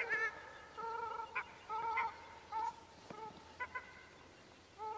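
Unseen birds calling over and over in the dark: short, nasal, mewing calls of steady pitch, about one a second, that sound like a mix of a bird and a cat. A few faint sharp clicks fall between the calls.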